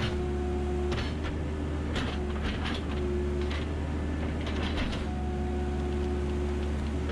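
Backhoe's engine running with a steady low rumble, a whine that comes and goes, and a scatter of sharp knocks and cracks.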